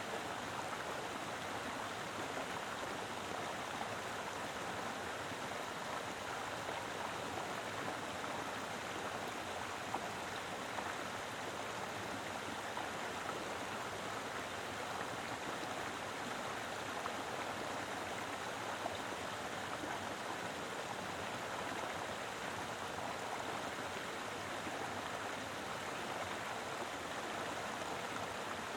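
Mountain river flowing strongly over rocks: a steady, even rush of water with no pauses or changes.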